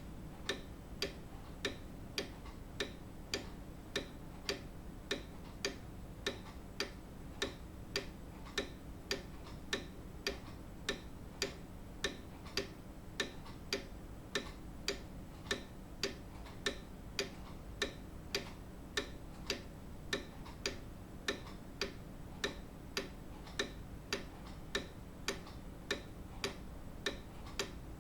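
Grandfather clock ticking steadily, sharp even ticks a little under two a second over a faint low hum.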